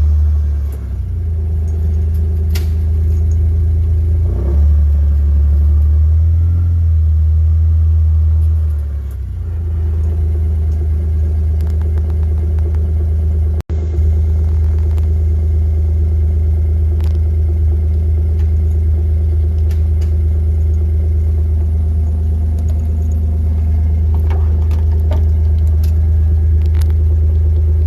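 A motor vehicle's engine running with a steady low hum that shifts slightly a few times, broken by a sudden brief gap about 14 seconds in.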